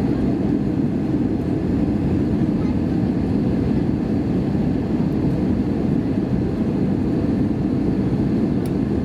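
Steady cabin noise inside an Airbus A320: an even, low rushing drone of airflow and engines with no changes.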